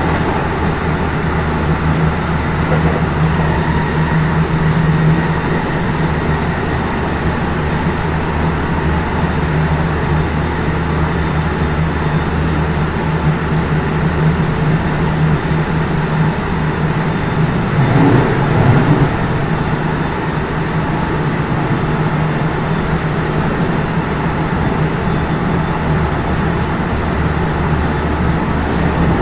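Running noise of a JR West 207 series 0 commuter train, heard from inside the motor car, holding a steady speed. The power-transistor VVVF drive and traction motors give a steady low hum. About two-thirds of the way in, a brief cluster of knocks comes from the wheels crossing rail joints.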